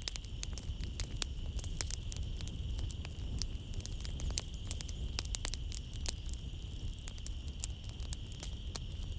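Wood fire crackling in a fireplace, with many sharp irregular pops over a low rumble of the flames, and a steady high trill of night insects such as crickets behind it.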